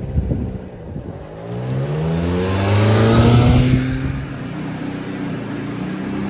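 1993 Subaru Sambar truck's 660 cc four-cylinder engine, uneven at first, then revved once: the pitch climbs over about two seconds, peaks, drops back, and the engine settles to a steady idle.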